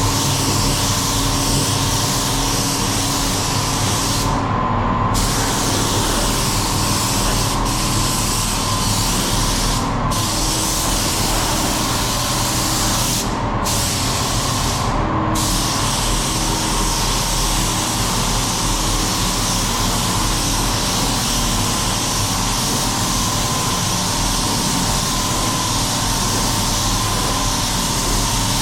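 Compressed-air spray gun hissing steadily, with short breaks about four and a half, ten, thirteen and a half and fifteen seconds in as the trigger is let off, over a steady low hum.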